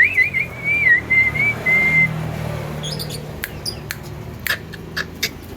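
Javan myna giving a wavering whistle that settles into a held note for about two seconds, then a series of sharp clicking chips.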